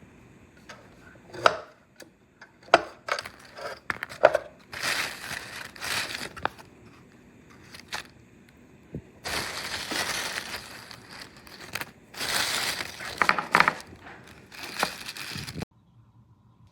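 Kitchen handling noises at a griddle: a scatter of sharp clicks and clinks, then several one- to two-second bursts of crunching or scraping. These stop abruptly near the end, and a faint steady hum is left.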